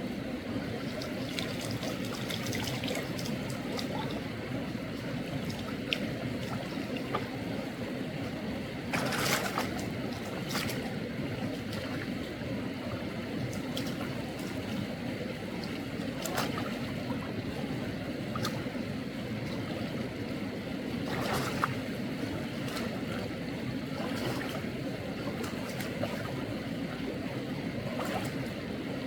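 Mountain stream water running steadily, with several brief knocks, the clearest about nine and twenty-one seconds in.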